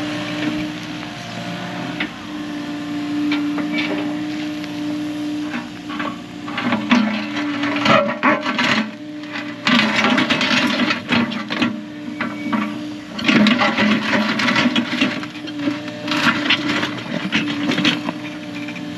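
Earth-moving machine's engine running steadily, with bursts of scraping and knocking from about six seconds in.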